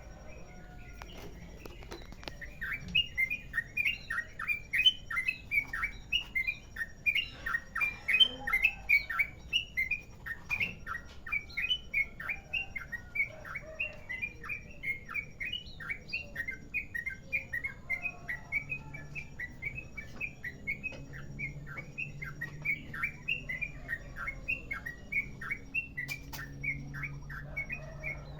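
Yellow-vented bulbul (trucukan) singing a long, unbroken run of rapid chattering notes, about four a second.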